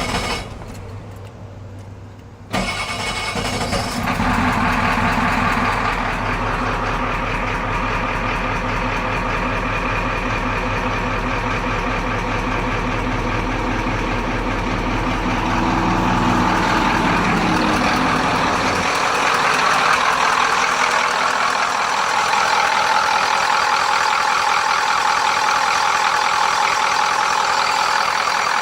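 Used replacement engine being started: it catches suddenly a couple of seconds in and settles into a steady run. About two-thirds through, the deep low rumble drops away while a higher hum grows. The engine has both head gaskets blown, one spitting oil and the other water.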